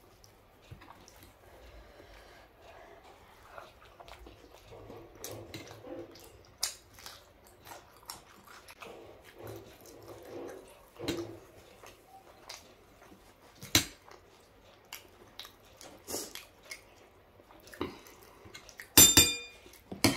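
Close-up chewing and wet mouth clicks from someone eating dosa, with soft crunching at intervals. About 19 seconds in, a louder metallic clatter with a brief ring: a spoon knocking against the steel bowl and metal tray.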